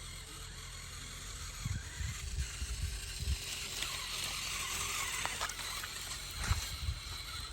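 Remote-control toy tractor working in soil: a steady whirr from its small motor and gears, with scraping and a few irregular low bumps.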